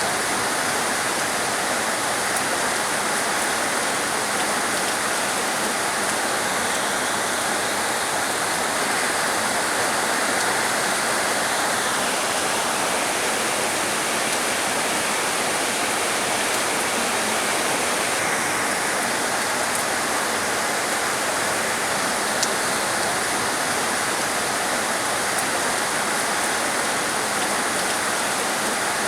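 Heavy rain falling, a steady dense hiss. A higher layer of the hiss drops away about twelve seconds in and comes back some six seconds later.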